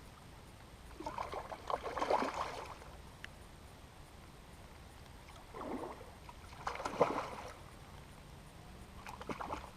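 Water splashing and sloshing in three short bursts, over the steady wash of river current.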